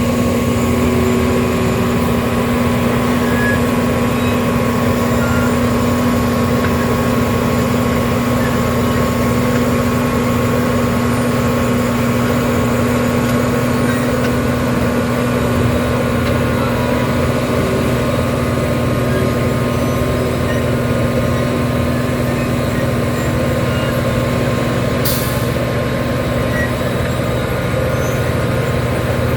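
Heavy diesel road-construction machinery running steadily under load, with a short hiss of air near the end.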